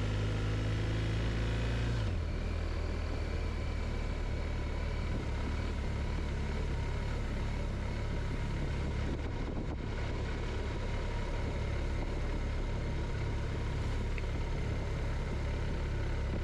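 BMW motorcycle engine running steadily under way, with road and wind noise; the engine note changes about two seconds in.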